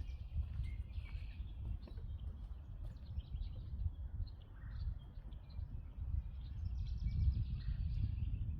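Songbirds chirping over a steady low rumble of outdoor noise, with a quick run of rapid notes near the end.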